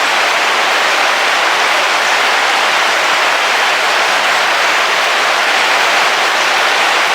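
Heavy rain falling steadily on the roof of a camping car, heard from inside.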